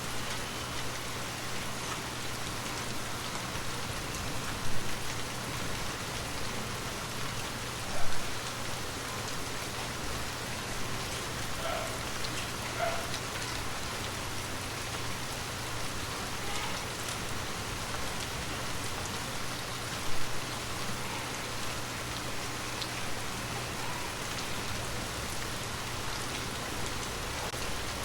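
Steady gentle rain falling, an even hiss of drops on surfaces, with a few louder single drops or taps standing out, three of them clearly.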